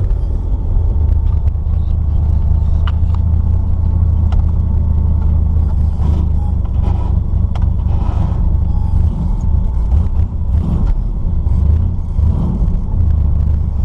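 Chevrolet S-10 pickup's newly swapped-in engine running with a steady low rumble.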